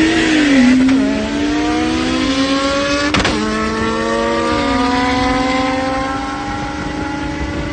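Big-turbo car engine pulling hard at full throttle in a roll race, its pitch climbing steadily with three short drops as it shifts up. A sharp crack about three seconds in.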